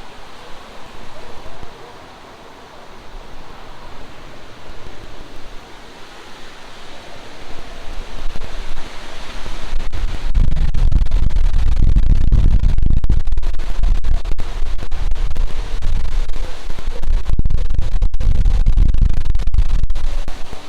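Storm wind gusting against the microphone. A steady rushing haze turns, about halfway through, into heavy low buffeting that swells and dips in gusts and drops back near the end.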